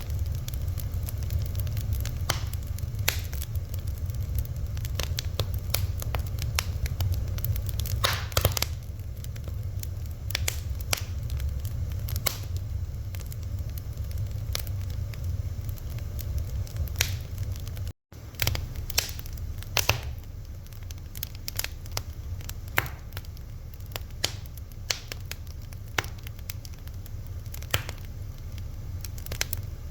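Fire crackling, with irregular sharp pops over a steady low rumble. The sound cuts out for a split second about eighteen seconds in.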